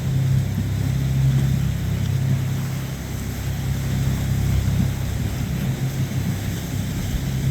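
Motorboat engine running with a steady low drone as a boat passes through the inlet.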